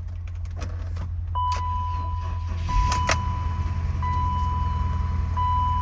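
BMW M54 3.0-litre straight-six starting from cold after months of sitting: it turns over and catches about three seconds in, then keeps running with a steady low rumble. A steady high electronic warning tone sounds from about a second and a half in, with short breaks, along with a few clicks.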